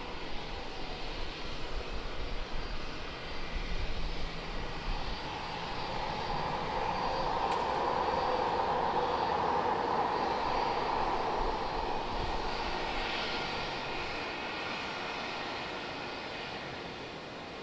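Jet airliner's engines passing, the noise swelling to a peak about eight to eleven seconds in and then fading away.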